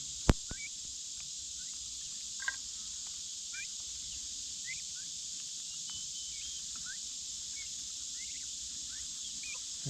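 Steady, high-pitched insect chorus with scattered short bird chirps over it. A sharp click sounds about a third of a second in, and a fainter one a couple of seconds later.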